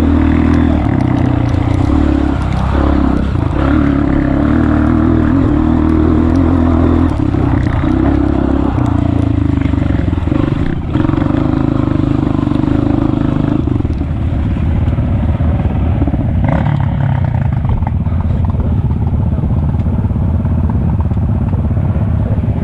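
Honda CRF230F trail bike's single-cylinder four-stroke engine running steadily under throttle, its note dropping to a lower, slightly quieter one about fourteen seconds in.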